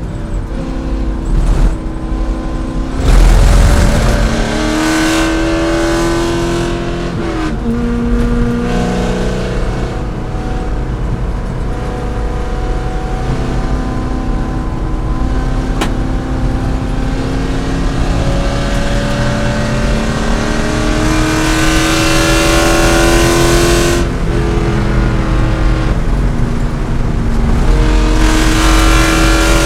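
C5 Corvette's V8 engine running hard under racing load, its pitch climbing steadily through each gear and falling back at the shifts, loudest about three seconds in.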